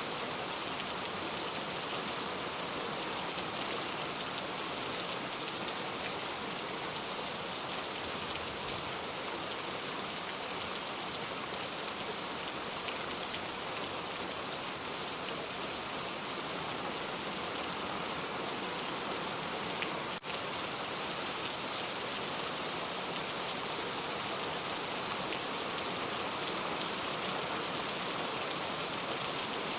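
Steady rain falling, an even hiss with a brief momentary dip about two-thirds of the way through.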